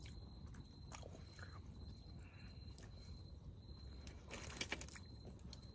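Faint chewing and crunching of food, with scattered small clicks and a denser crunchy cluster about four and a half seconds in.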